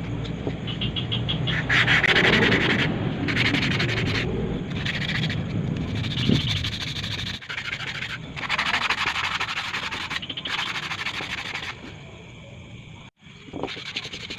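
Abrasive rubbing on a motorcycle hub during polishing: a scratchy rasp in repeated strokes about a second long. A motor hums steadily under the strokes and stops about seven seconds in.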